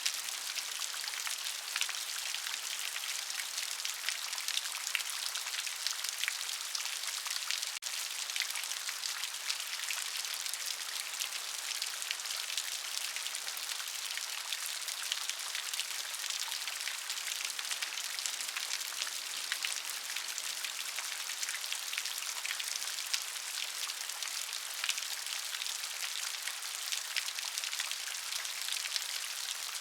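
Steady rain, with many individual drops ticking on a hard surface and a high, hissing wash; no thunder or low rumble.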